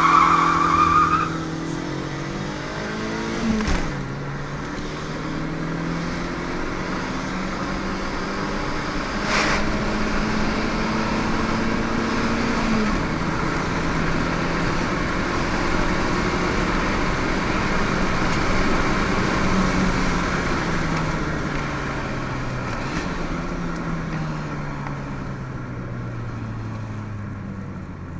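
Chip-tuned Fiat Punto 1.2 16v four-cylinder petrol engine, heard from inside the cabin under hard acceleration. Its note climbs through the gears, drops at upshifts about four and thirteen seconds in, then falls away gradually as the car slows. A brief squeal, probably the tyres, sounds in the first second.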